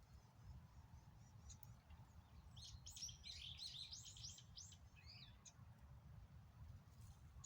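A small songbird gives a quick burst of rapid high chirps lasting about three seconds, starting a little over two seconds in. Under it runs a faint low rumble of background noise.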